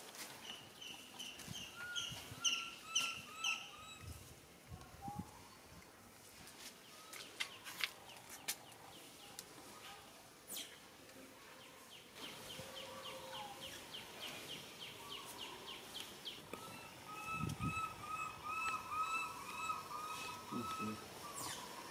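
A bird calling outdoors in runs of short, quick, repeated chirping notes, about three a second. A faster, fainter ticking trill comes in between the runs, and there are a few scattered soft clicks.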